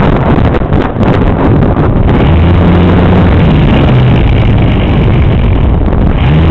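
Heavy wind buffeting the microphone of a camera carried on a flying RC model, a loud steady rush. From about two seconds in, a low wavering drone joins it.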